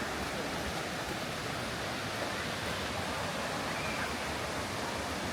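Waterfall crashing with a steady, even rush of falling water.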